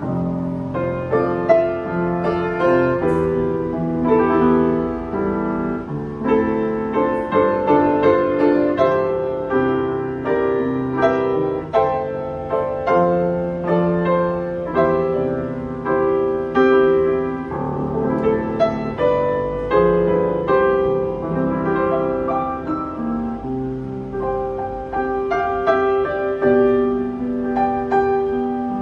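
August Förster upright piano being played continuously, many notes and chords struck in steady succession for a sound check. The instrument has new German Abel hammer heads and freshly replaced damper felts, and has been regulated and voiced.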